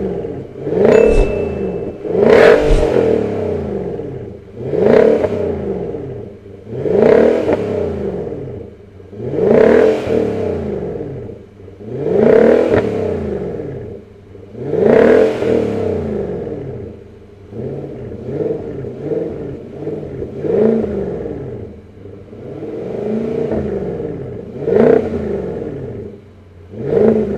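2019 Infiniti QX80's 5.6-litre V8 revved again and again through a loud aftermarket exhaust. Each blip rises and falls in pitch, one every two to three seconds.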